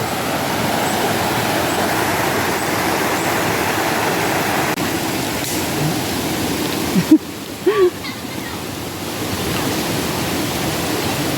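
Rushing river water, a steady full hiss. The rush drops suddenly about seven seconds in, and a brief voice sound comes just after before the water noise builds back up.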